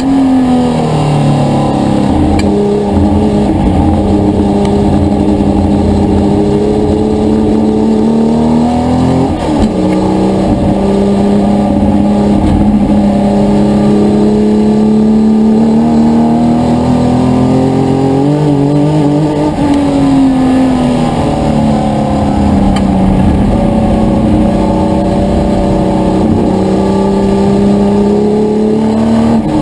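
Historic touring car racing engine running hard at high revs. The engine's pitch climbs slowly, then drops sharply twice, about ten seconds in and again near twenty seconds.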